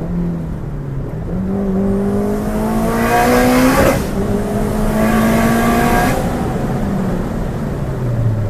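Turbocharged 2009 Honda Civic Si's four-cylinder K20Z3 engine pulling hard under throttle. The revs climb for about two and a half seconds, break sharply at an upshift about four seconds in, and climb again for two seconds. They then fall away as the throttle is lifted.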